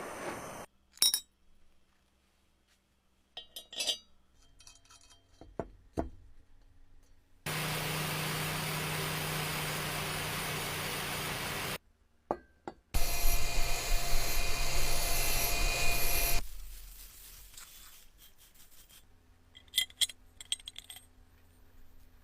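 Workshop sounds of metal parts being worked: scattered clinks and taps, then a power tool running steadily for about four seconds. After a short pause a louder, rougher tool runs for about three and a half seconds, followed by more light clinks.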